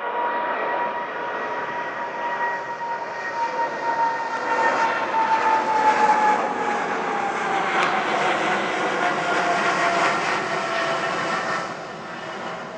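Jet airliner engines at takeoff power passing by on departure: a steady roar with a high whine that slowly drops in pitch as the aircraft goes past. The roar swells to its loudest about halfway through and eases near the end.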